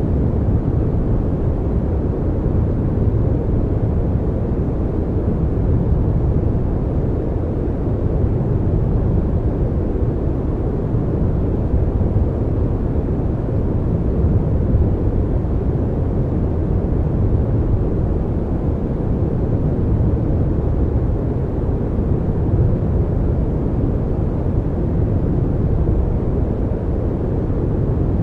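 Steady, loud low rumble of a heavy vehicle, unbroken throughout.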